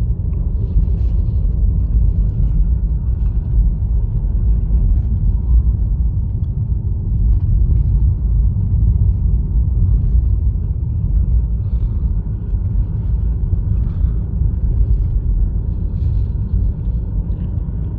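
Steady low rumble of road and tyre noise inside a 2020 Honda Fit's cabin while it drives on a snowy, icy mountain road, with faint small ticks over it.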